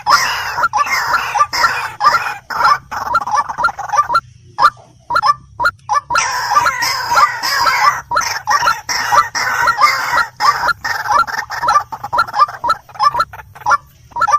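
White-breasted waterhen (dahuk) calling: a rapid run of short, harsh, repeated notes, several a second, that breaks off for a moment about four seconds in and then resumes.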